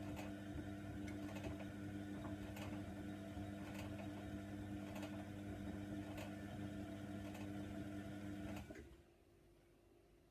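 Hoover Nextra washer dryer running with a steady mechanical hum and a faint click about once a second, which cuts off suddenly near the end.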